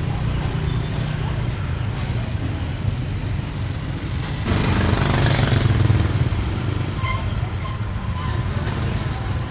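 Busy outdoor market ambience: a steady low engine hum, with a motor vehicle passing close and louder about halfway through, over faint background voices.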